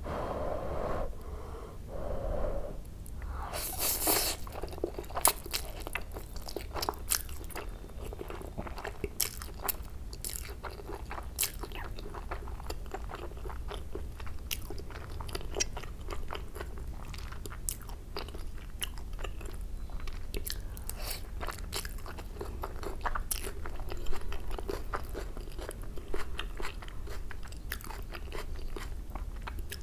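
Close-miked chewing of a mouthful of fried Maggi noodles, with many sharp, crisp mouth clicks and crunches throughout.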